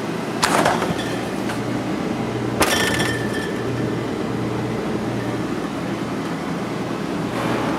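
Beer containers clinking as they are moved about in a refrigerator: two sharp clinks, about half a second in and near three seconds, the second ringing briefly, over a steady low hum.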